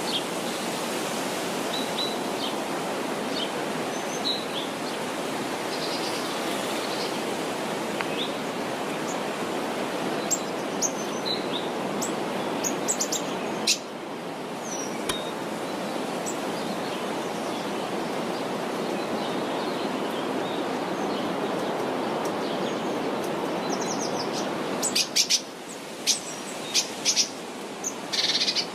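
Steady rush of flowing water with birds chirping over it, and a quick run of sharp, high bird calls near the end.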